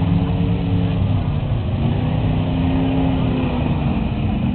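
Several demolition derby cars' engines running and revving together, their pitches rising and falling slightly.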